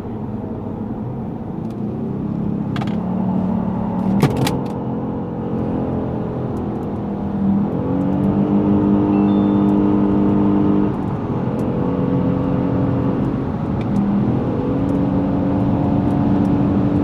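Lexus GS450h's 3.5-litre V6 hybrid drivetrain pulling out of a hairpin under acceleration. The engine note climbs over the first few seconds, then holds steady pitches that step down and back up several times, with a short click about four seconds in.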